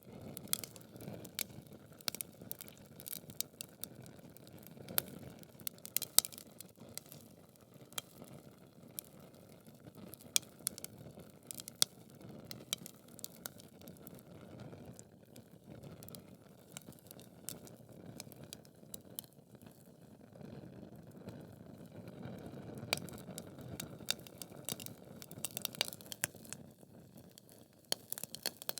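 Logs burning in a fireplace, crackling with frequent sharp pops and snaps over a low steady rush of flame.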